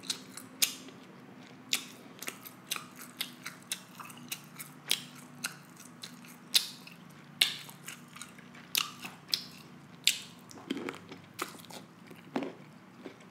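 Close-miked mouth sounds of eating buttery prawns from a seafood boil: wet chewing with sharp, irregular clicks and smacks, one to three a second.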